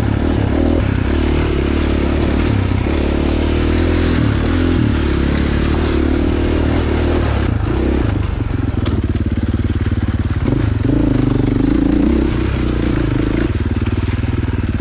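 Dirt bike engine running under way, its revs rising and falling as the rider works the throttle, with a few sharp clicks about halfway through.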